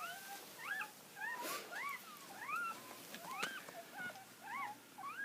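Newborn puppies crying: a string of short, high, rising-and-falling squeaks, several pups overlapping at about two or three cries a second.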